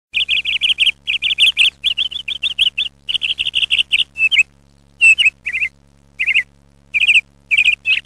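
A small bird chirping in fast runs of short, high chirps for about four seconds, then in sparser groups of chirps. A faint low hum runs underneath.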